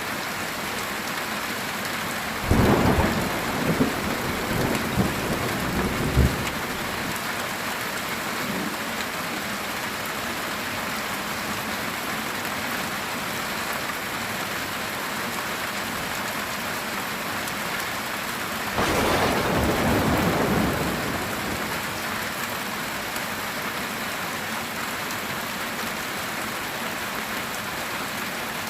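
Heavy rain drumming steadily on a metal tin roof, with thunder: a series of cracks and rumbles starting about two and a half seconds in and lasting a few seconds, then a second, smoother rumble about two-thirds of the way through.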